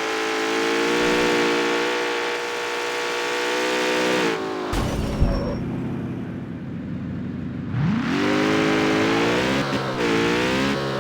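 Jaguar F-Type's supercharged 5.0-litre V8 pulling under load. About halfway through the driver lifts off and there is a sharp exhaust pop. The engine runs quietly off-throttle, then revs climb again with the note rising and dipping.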